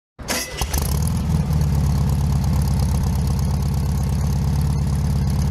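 Car engine idling with a steady low hum, a little uneven in the first second before settling.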